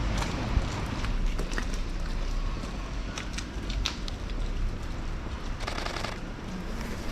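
Canon R6 Mark II camera shutter firing a rapid burst for about half a second, about two-thirds of the way through, over a steady low city rumble with scattered small clicks.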